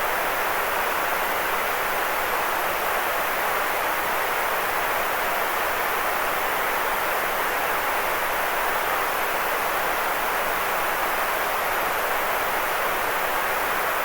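Steady, unchanging white noise, a continuous hiss with no rhythm or pitch, fullest in the middle range and thin in the bass.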